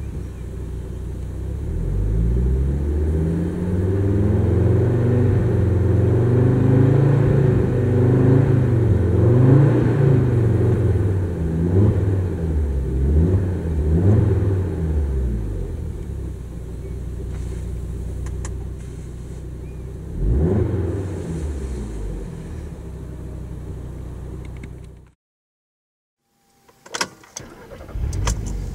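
Audi RS3's turbocharged 2.5-litre inline five-cylinder breathing through a Supersprint catback exhaust (centre pipe and rear silencer), heard from inside the cabin while parked: revved repeatedly, the engine pitch rising and falling several times, then settling to idle with one more short blip. Near the end the sound cuts off abruptly, followed by a few faint clicks.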